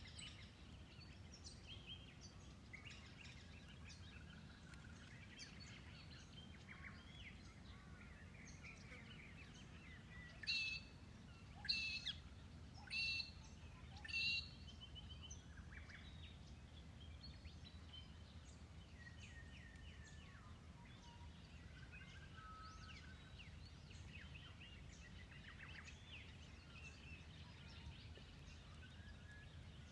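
Bush birds chirping and trilling over a faint low rumble, with four louder calls in quick succession near the middle.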